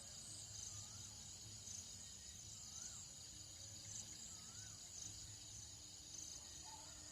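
Tropical dawn ambience, faint: a steady high-pitched shrilling of insects with a pulsing chirp, and a bird giving a short whistle that rises and falls, three times about two seconds apart.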